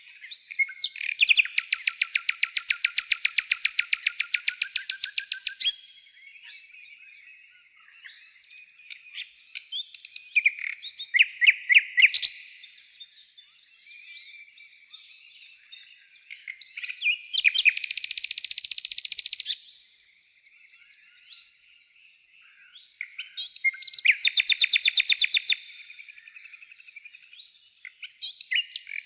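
A songbird singing: soft, continuous warbling broken four times by loud, fast trills of rapidly repeated notes, the first lasting about four seconds.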